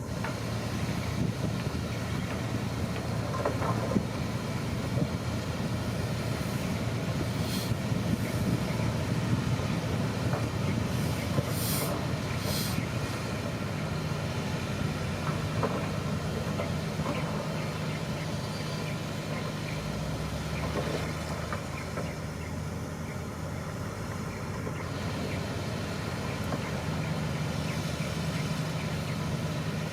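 Shantui crawler bulldozer's diesel engine running steadily, with a few sharp metallic clanks.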